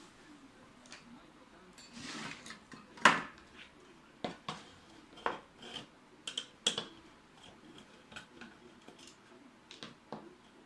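Scattered clicks, clinks and light knocks of hard metal and plastic parts of a disassembled ATX power supply being handled, with a short scraping noise about two seconds in and the loudest knock about a second later.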